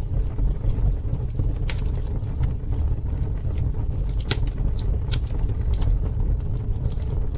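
Campfire burning: a steady low rumble with scattered sharp crackles and pops, the loudest pop a little past the middle.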